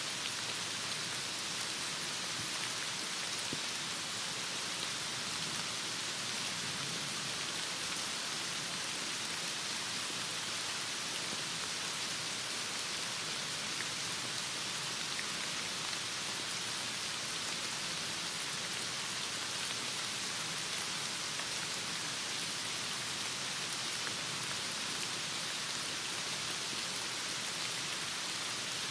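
Heavy rain falling steadily: an even, unbroken hiss of rain with no let-up.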